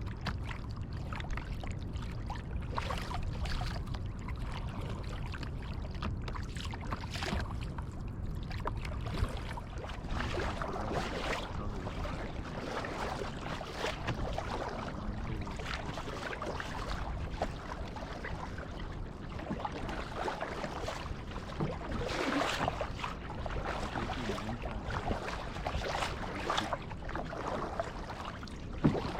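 Kayak paddling: paddle blades dipping and splashing with water trickling off them, in irregular strokes every couple of seconds over a steady low rumble.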